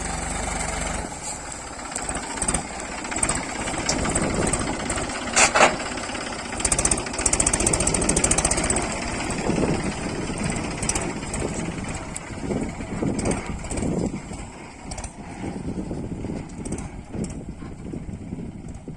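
Heavy diesel machinery running under load, with irregular knocks and one sharp, loud bang about five and a half seconds in.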